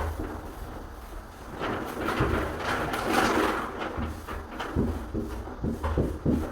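Scraping and rubbing for about two seconds in the middle, then several light knocks near the end: handling noise from door-repair work.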